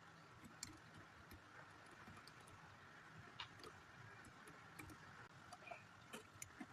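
Near silence with a few faint, scattered clicks of plastic Lego pieces being handled and pressed onto the model.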